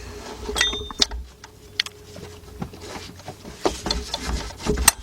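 A 1/4-inch drive ratchet turning the idler pulley bolt on a 2003 Honda Accord's 3.0 engine: irregular clicking and rasping of the ratchet's pawl, with a few sharp metallic clinks of the tool against metal.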